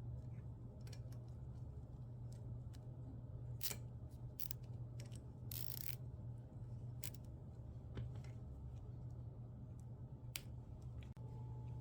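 Small plastic parts being handled and clicked into place during the engraver's assembly: scattered light clicks and taps, with one short rasp about five and a half seconds in, over a steady low hum.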